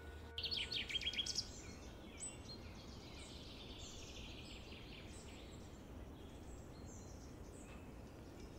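Songbirds chirping outdoors: a quick run of high chirps in the first second or so, then softer, falling chirps every half second or so over a low steady background hum.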